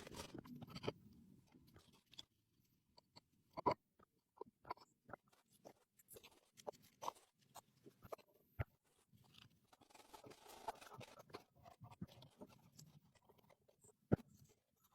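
Irregular light clicks, taps and knocks with a little scraping, like small tools and parts being handled.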